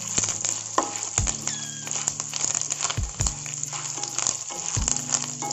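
Peanuts, chana dal, cashews, chillies, cumin and fresh curry leaves sizzling and crackling in hot oil in a kadhai, stirred with a spatula that gives a few soft knocks against the pan.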